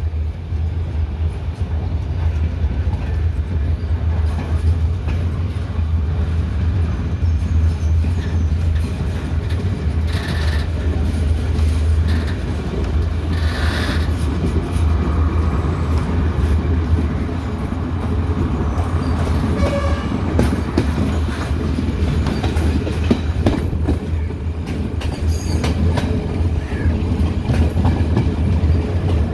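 Sri Lanka Railways diesel train running, with a steady low engine rumble and the clickety-clack of wheels over rail joints throughout.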